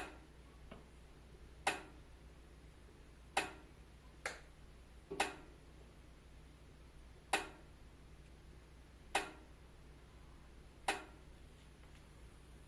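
Wood fire in a fireplace crackling: about eight sharp pops at uneven intervals of one to two seconds over a steady low rumble.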